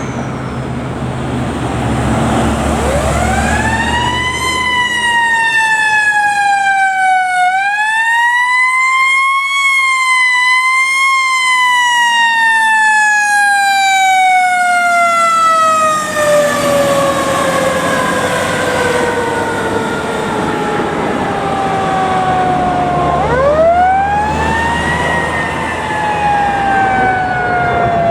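A fire truck's mechanical coaster siren winds up quickly and then coasts slowly down in pitch. It is re-wound twice, once about eight seconds in and again near the end, each time followed by a long falling wail. A heavy truck engine rumbles underneath near the start and the end.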